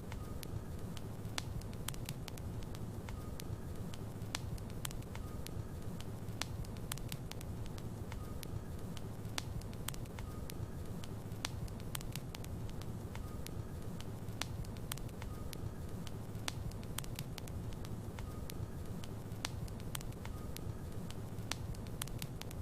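Logs burning in a fireplace: a steady low rumble of flames with frequent sharp crackles and pops.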